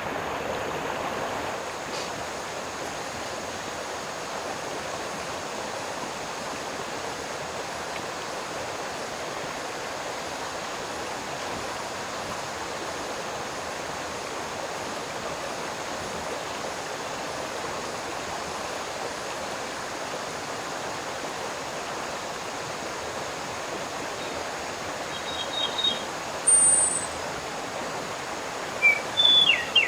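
Steady rushing water noise. Near the end a bird gives a few short chirps, the last a quick run of about six descending notes.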